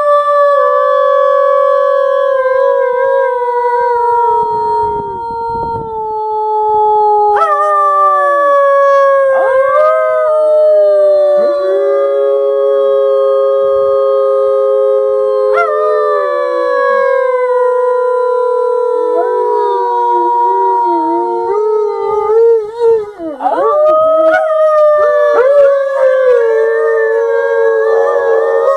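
A pack of wolves howling in chorus: several long howls overlap at different pitches, some sliding slowly downward, with wavering, broken calls about three-quarters of the way through.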